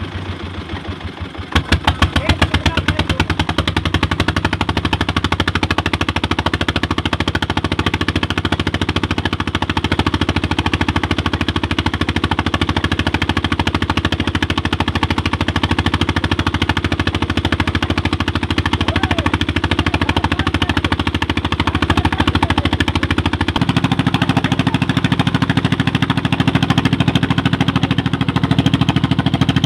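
Old Petter diesel engine powering a tubewell, running with a rapid, even knocking beat. It gets louder about a second and a half in, and its tone shifts slightly near the end.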